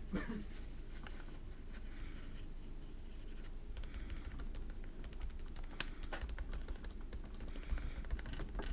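Faint scratching and light taps of colouring materials working on paper, with one sharp click a little before six seconds in.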